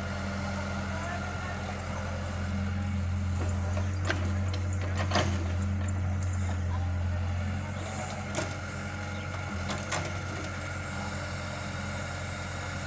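Tractor engine running steadily at a low idle, a little louder for a few seconds in the middle, with a few sharp knocks scattered through.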